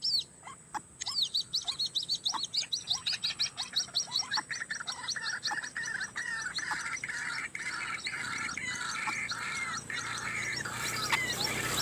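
White-breasted waterhens calling: a fast run of high, sweeping notes from about a second in, joined after a few seconds by a dense chorus of lower, repeated calls. A loud rushing noise swells near the end.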